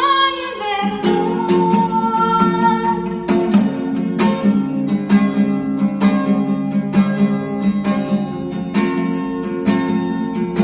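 Song on strummed acoustic guitar, with a woman singing in the first few seconds; the rest is guitar strumming alone in a steady rhythm.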